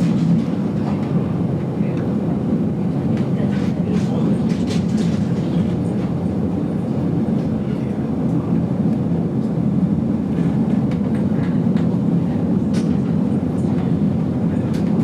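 GoldenPass Belle Époque train running along the metre-gauge line, heard from inside the carriage: a steady rumble with a few light clicks and squeaks scattered through it.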